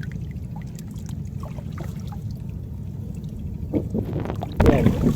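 Water trickling and dripping in scattered small drops over a low steady rumble.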